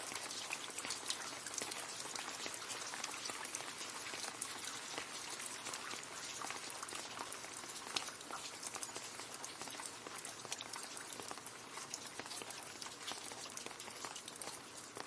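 Rain falling into a puddle: a steady dense patter of drops splashing on water, with many individual drips standing out.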